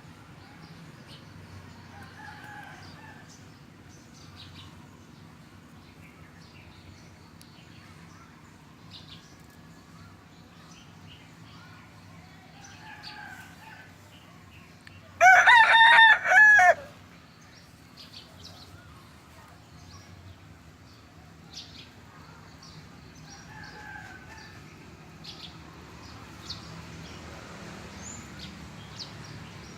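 A rooster crowing once, loud, about halfway through, with a few fainter crows from farther off in between and scattered faint high chirps.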